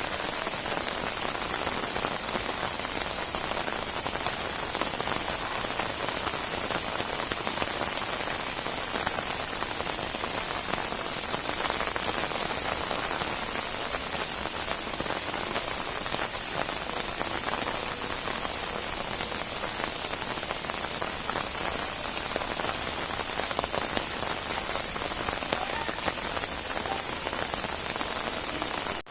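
Steady rainstorm: heavy rain falling without a break, an even hiss made of countless small drop impacts on a surface.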